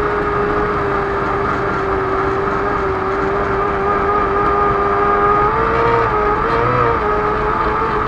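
Race car engine running hard at high, steady revs, heard from a camera mounted on the car's bonnet, with the pitch wavering up briefly twice near the end.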